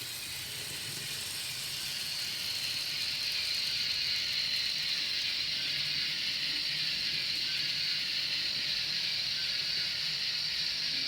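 Steady steam hiss from the sound decoders of N gauge DCC-sound steam locomotives, coming through their small speakers with a faint running hum beneath, growing slightly louder as a loco is brought in.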